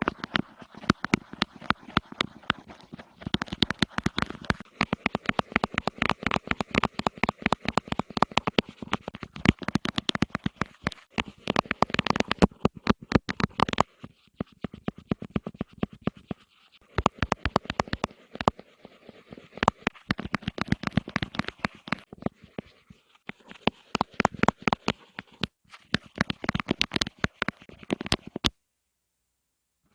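Fast ASMR tapping: runs of rapid, sharp taps and clicks with short pauses between them, stopping abruptly near the end.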